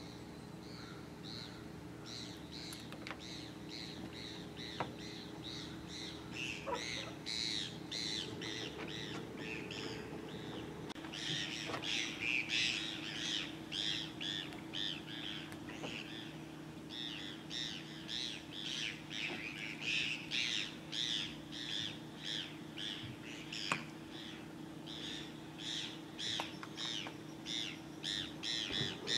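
Birds calling in quick series of short repeated notes, growing busier about eleven seconds in, over a steady low hum, with an occasional sharp click.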